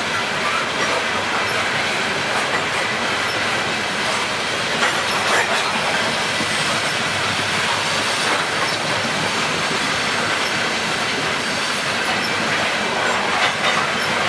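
CSX coal hopper cars rolling past close by: a steady noise of steel wheels on rails, with a few sharper clacks mixed in.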